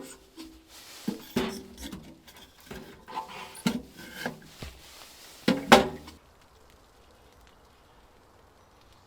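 Pieces of firewood knocking and clunking together as they are handled, about five sharp knocks, each with a short hollow ring. The knocking stops about six seconds in, leaving only a faint steady background.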